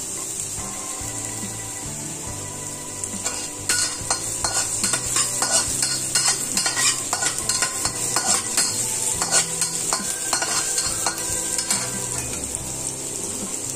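Chopped shallots and garlic sizzling in hot oil in a wok, frying until fragrant. From about three and a half seconds in until near the end, a metal spatula scrapes and clatters against the wok as they are stirred.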